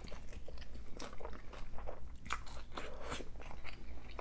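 Biting into and chewing a crispy fried birria taco: a string of short, sharp crunches from the mouth.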